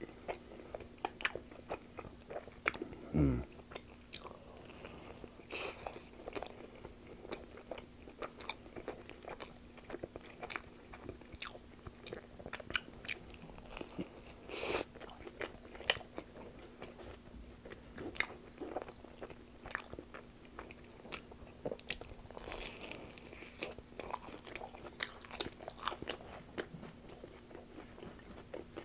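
Close-miked chewing and biting of Pizza Hut pizza: wet mouth clicks and smacks with the odd crunch of crust. About three seconds in there is a short low sound that slides downward, and a faint steady hum sits under it all.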